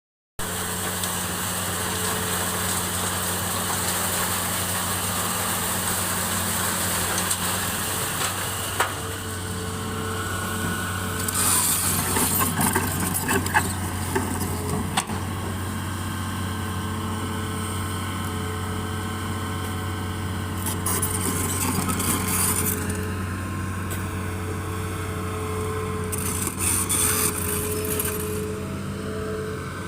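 Engine of sand-mining machinery running steadily at constant speed, with a low hum, and a few bouts of gritty rattling noise over it, the longest about a third of the way in.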